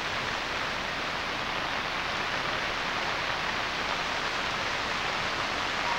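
Steady rain falling onto floodwater covering a street, an even hiss with no breaks.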